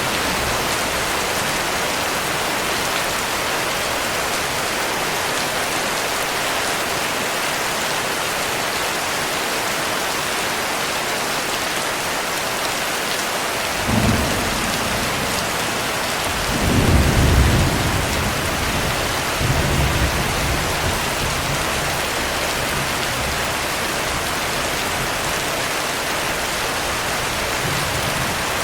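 Heavy rain falling steadily, with a roll of thunder about halfway through: a short clap, then the loudest low rumble a couple of seconds later, dying away in a weaker tail.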